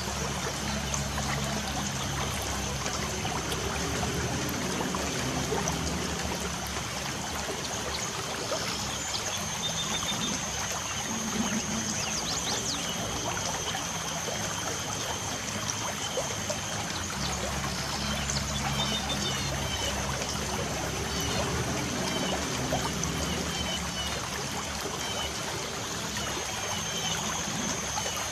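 Light rain falling steadily with water trickling, birds chirping now and then, and a thin steady high note behind it.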